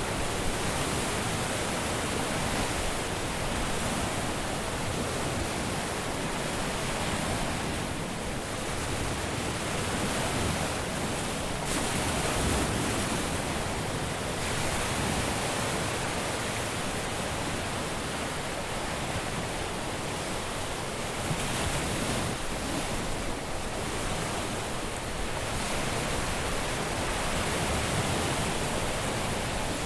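Caribbean sea surf breaking on a beach: a steady rush of waves that swells slightly now and then.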